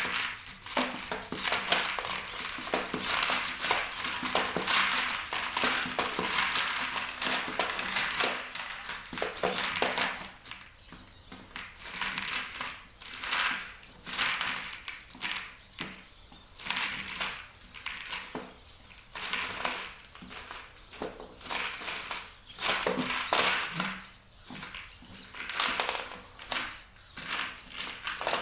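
Legged search-and-rescue robot walking: its servo-driven legs tap and clatter on the floor in quick, uneven knocks, over a faint steady motor hum. The tapping is dense for about the first ten seconds, then sparser.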